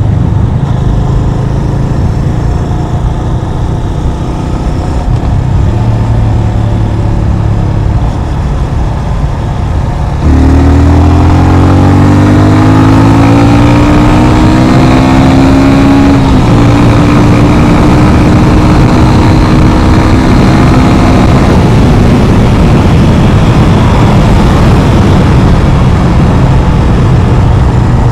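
Yamaha FZ25's single-cylinder engine running at low revs, then about ten seconds in pulling harder, its pitch rising, with a gear change about six seconds later and a steady higher note after it. The engine then sinks into steady wind and road noise.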